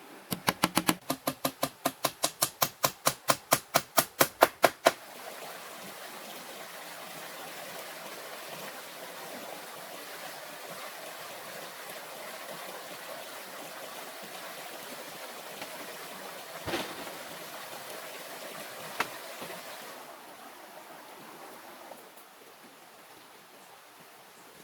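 A fast, even run of about two dozen sharp knocks, roughly five a second, stopping about five seconds in. A steady rushing noise follows, with two single knocks, and it drops quieter near the end.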